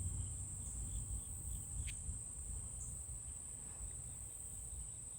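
Insects trilling in one steady, high-pitched chorus, over a low rumble on the microphone.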